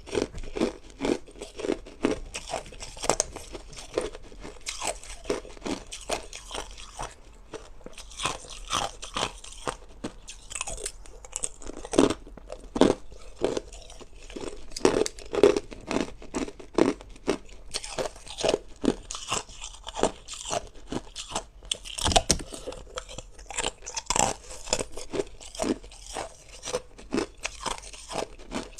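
A person biting and chewing hard ice: a continuous run of sharp crunches, about two or three a second.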